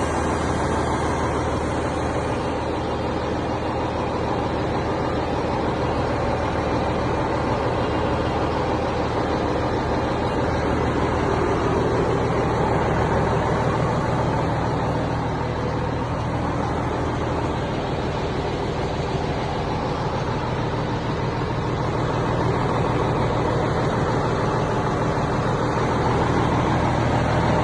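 Mack E7 mechanical inline-six diesel engine of a 2002 Mack RD roll-off truck running steadily with a low, even drone.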